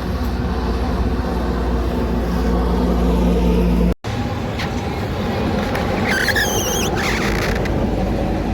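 A heavy truck's engine running steadily with a deep drone. About four seconds in it cuts off abruptly and gives way to road traffic noise, with a wavering high-pitched squeal for about a second near the end.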